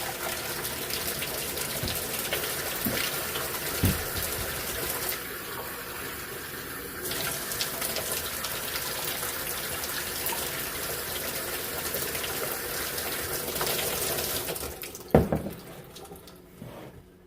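Water running steadily from a kitchen tap, which stops about fifteen seconds in with a loud thump.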